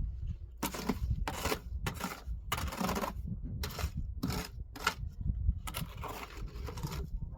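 A run of about ten short scraping strokes, one every half second or so, over a steady low rumble.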